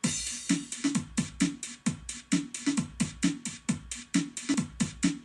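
An electronic drum-machine beat with squeaky, pitch-bending tones on each hit, about three hits a second. It starts suddenly.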